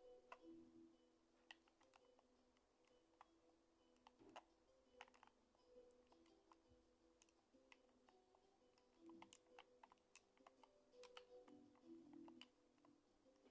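Near silence, with faint, irregular sharp clicks scattered throughout and faint on-and-off tones.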